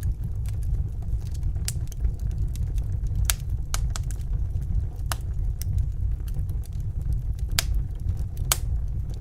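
Wood fire burning: a steady low rumble of flames with sharp crackles and pops at irregular intervals, roughly one a second.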